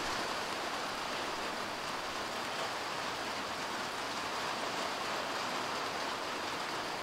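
Steady light rain falling on parked cars and wet, muddy ground: an even hiss with no thunder.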